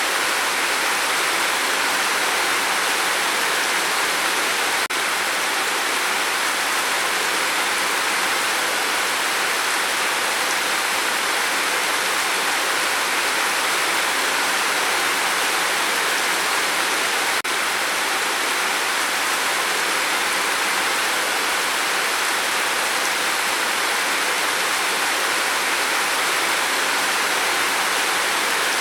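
Steady rain falling, an even hiss that holds level throughout, with a faint brief click about five seconds in and another just past the middle.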